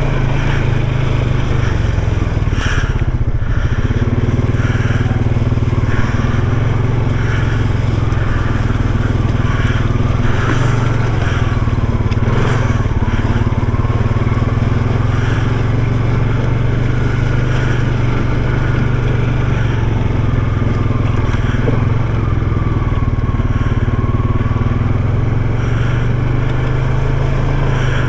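ATV engine running steadily at a low, even speed while riding along a trail, with a faint wavering whine over the engine note.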